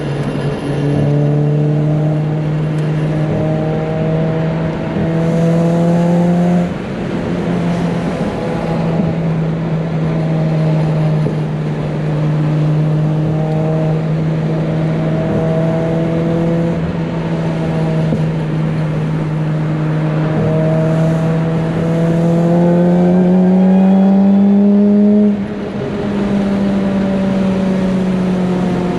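A car engine running at steady, held revs, giving a constant pitched drone. About three-quarters of the way through the revs climb a little, then drop back suddenly.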